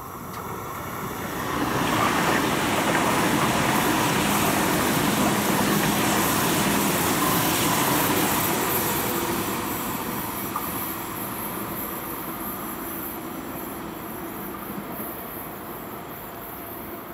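ICE 3 (class 403) electric high-speed train passing at speed. A steady rushing noise swells quickly about two seconds in, holds for several seconds, then slowly fades as the train runs away.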